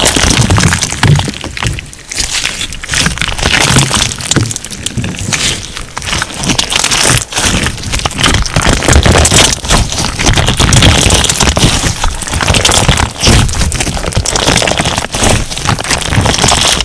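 Crunch slime being played with by hand, giving a dense, continuous run of crackling and popping crunches.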